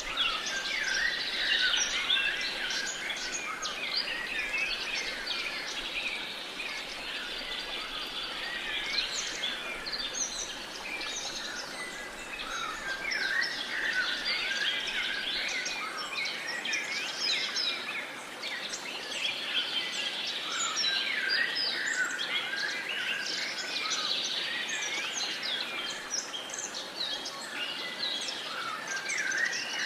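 A dense chorus of many birds chirping and singing at once, overlapping calls without a break.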